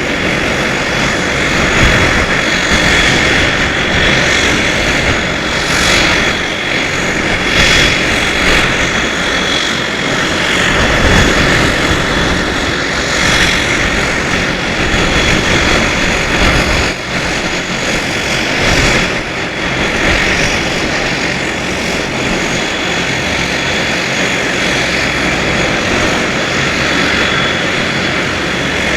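Embraer EMB 120 Brasilia's twin Pratt & Whitney PW118 turboprop engines running steadily, a loud propeller drone with a constant high-pitched whine over it.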